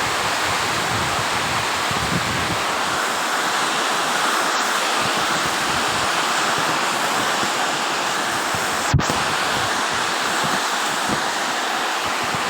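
Heavy tropical downpour with strong wind, a steady, even rush of rain noise. One brief thump stands out about three-quarters of the way through.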